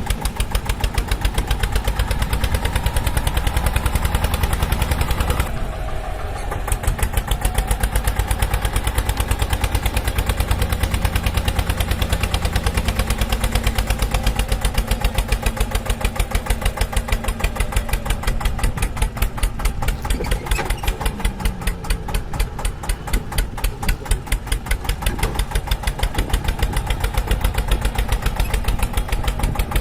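Tractor engine running steadily with a fast, even chugging rhythm, dipping briefly about six seconds in.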